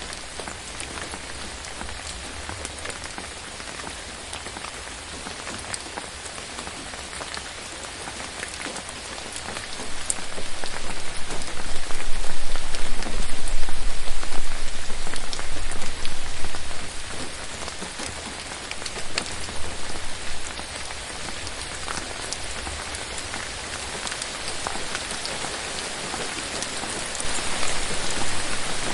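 Steady rain falling on forest foliage, with individual drop ticks over a continuous hiss. The rain grows heavier about ten seconds in, holds for several seconds, then eases back, and picks up again near the end.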